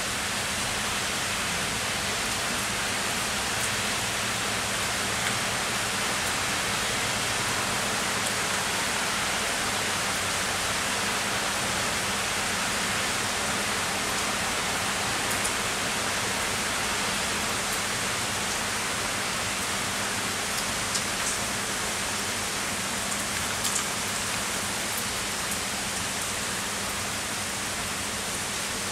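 Heavy rain falling steadily, an even hiss, with a few sharper ticks of drops hitting close by, mostly in the second half.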